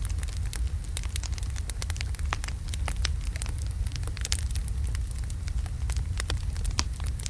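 Wood logs burning in a fireplace: a steady low rumble of flames with frequent sharp, irregular crackles and pops.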